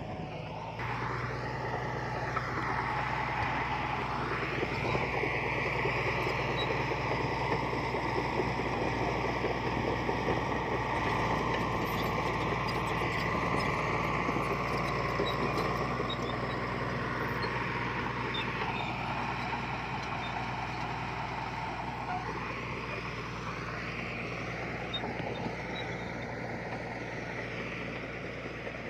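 Diesel engine of heavy earthmoving equipment running steadily under load, its note drifting slowly up and down. It gets louder about a second in and eases off a little near the end.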